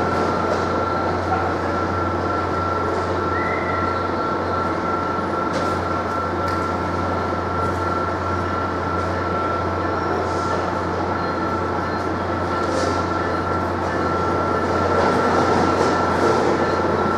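Steady din of idling trains in a covered station, with a constant high whine and a low hum, as a passenger train creeps in toward the platform.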